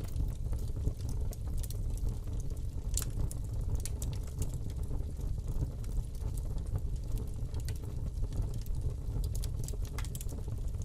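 Fire burning in a fireplace: a steady low rumble of flames with irregular crackles and pops, the sharpest about three seconds in.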